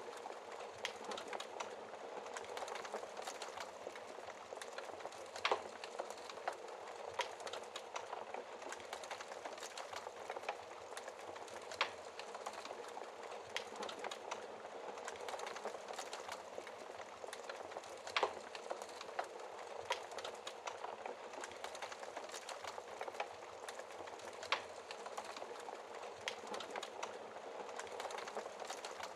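Wood fire crackling in a fireplace: a steady dense crackle with a sharper, louder pop every few seconds.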